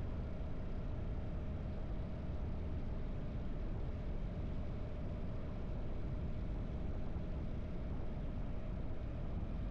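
Harley-Davidson V-twin motorcycle engine running at a steady cruising speed, with no revving up or down.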